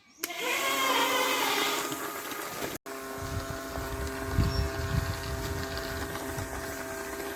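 Small electric DC motor of a homemade bike running with a steady whine, with some low rumbling about halfway through.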